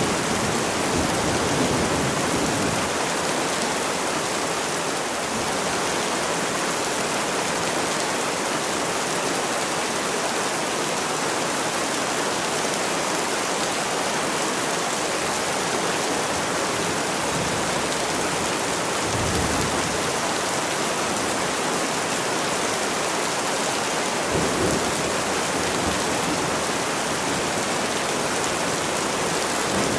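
Steady rain falling, with low rumbles of thunder that fade out in the first few seconds, come back briefly around two-thirds of the way through and build again at the end.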